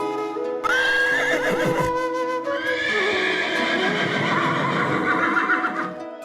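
An animal's loud call over background music: a wavering high cry about a second in, then a longer wavering call lasting several seconds.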